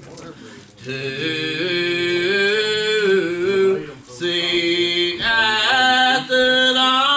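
Slow hymn singing in long held notes, with short breaks about half a second in and about four seconds in.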